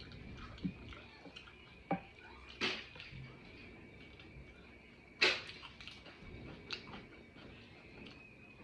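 Eating utensil clinking and scraping against a dish while eating, in about five sharp clicks, the loudest about five seconds in. A faint steady high-pitched tone sits underneath.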